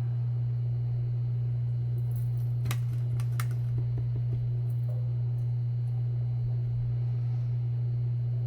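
A steady low hum, with a few light clicks and taps about three seconds in.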